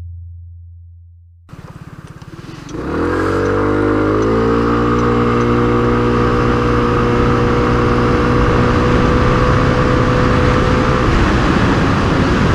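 KYMCO Racing S 125 scooter's single-cylinder 125 cc engine pulling away under full throttle. It idles at first, then about three seconds in it revs up quickly and holds a steady high pitch as the scooter accelerates.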